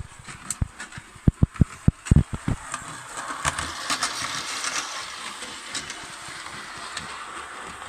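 Hornby O gauge tinplate locomotive running on three-rail track under electric power: a steady rattling run of motor and wheels on tinplate rails, with a quick series of sharp clicks in the first couple of seconds.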